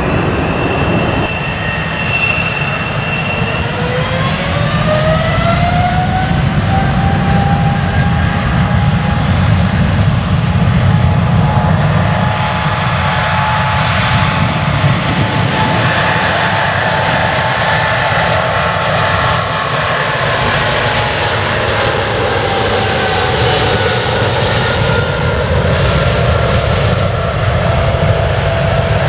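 Jet airliner's engines at takeoff power on a departure run: a loud, steady rumble with an engine whine that rises in pitch early on as the engines spool up, holds, then drops lower near the end as the aircraft passes.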